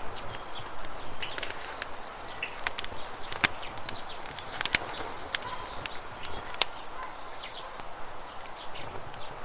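Wood campfire crackling, with sharp irregular pops, over a steady rush of flowing river water, with a few brief bird chirps.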